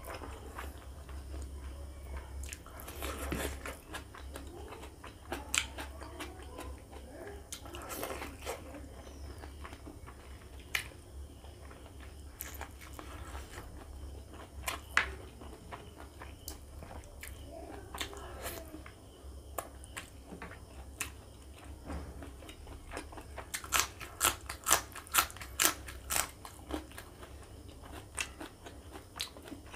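Close-up chewing and mouth sounds of a person eating pork fat and rib curry with rice by hand, with wet smacks and scattered sharp crunches. A quick run of loud crunching clicks comes about 24 seconds in. A low steady hum sits underneath.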